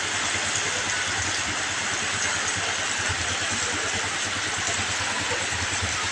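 Heavy rain falling, a dense, steady hiss with a low rumble underneath.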